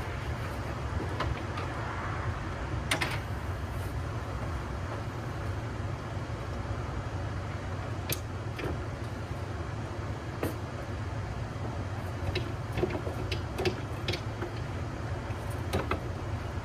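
Scattered light knocks and clicks of hand work, fitting rubber feet and adjusting the mount for a mini-split outdoor unit, over a steady low rumble.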